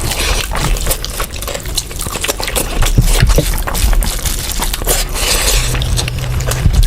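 Close-up wet eating sounds of curry and rice: many small smacks and clicks of chewing and squelching food.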